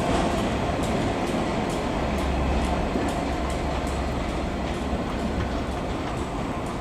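Train of Pullman coaches with DB Class 67 diesel locomotives rolling slowly out, a steady rumble with wheels clicking over rail joints, slowly fading.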